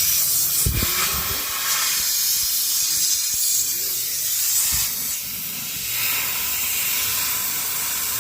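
Steady, loud hiss of gas rushing out under pressure during refrigeration repair work on a deep freezer, with a few faint knocks.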